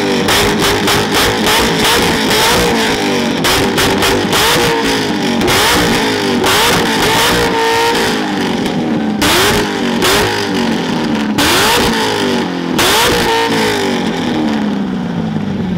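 A car with a loud modified exhaust being revved hard over and over: the engine shoots up and drops back every second or two, with sharp exhaust pops and crackles between the revs.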